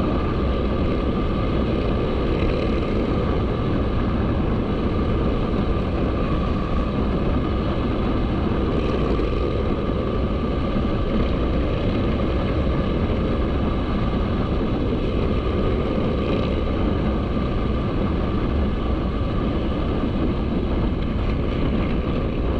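Supermoto motorcycle running steadily while being ridden, its engine sound mixed with a steady rush of wind over the microphone.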